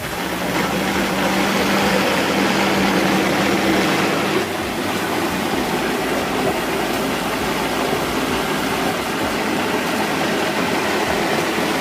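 Electric blender running steadily for about twelve seconds, chopping roasted tomatoes and jalapeños with a little water into salsa. A steady hum under the motor noise drops away about four seconds in, and the noise eases slightly.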